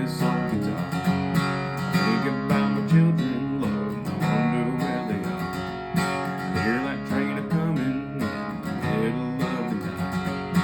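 Acoustic guitar strummed steadily as song accompaniment.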